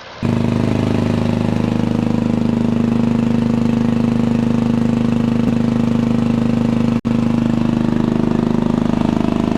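V12 V-2-34 diesel engine of a T-34/85 tank running steadily at idle, with a momentary break about seven seconds in.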